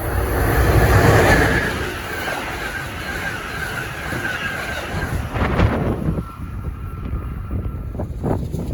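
A train running past, a continuous rush and rumble with a faint steady whine over the first few seconds, and wind buffeting the microphone.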